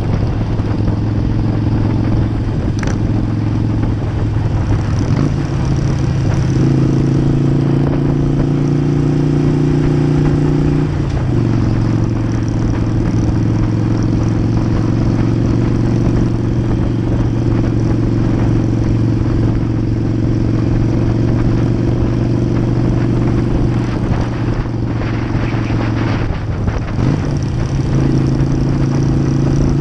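Harley-Davidson V-twin motorcycle engine running under way at cruising speed. Its note steps up about five seconds in, drops back about eleven seconds in, and climbs again near the end as the throttle and gears change.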